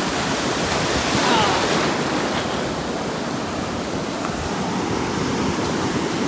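Sea surf washing in steadily, with a slight swell about a second in.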